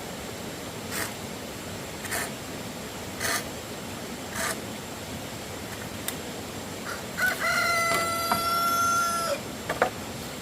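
A rooster crows once, a drawn-out call held for about two seconds, starting about seven seconds in. Before it, short scraping strokes come about once a second.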